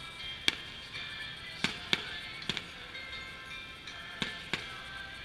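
Aerial fireworks shells bursting: about six sharp, separate bangs spaced irregularly, two of them in quick succession, over steady background music.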